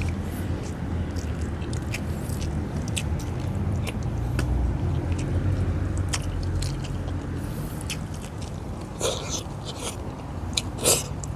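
Close-up eating sounds: a person chewing fish and rice with small wet mouth clicks and smacks, with two louder smacks near the end. A steady low hum runs underneath.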